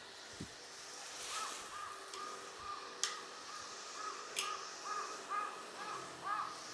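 A crow cawing repeatedly in a quick series of short calls, with two sharp clicks about three and four and a half seconds in.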